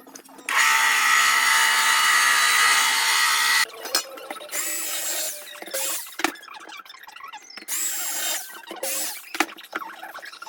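Power saw cutting chip foam: one long run of about three seconds, then several shorter runs of under a second each.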